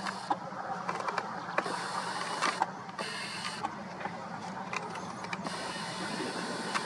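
Train approaching: a steady noisy rumble with many irregular sharp clicks and rattles.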